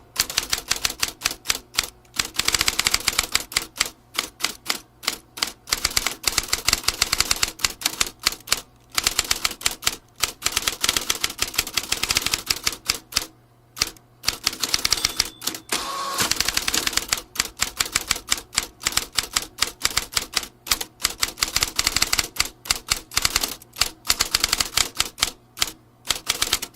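Vintage typewriter being typed on: rapid key strikes in fast runs, with brief pauses between them.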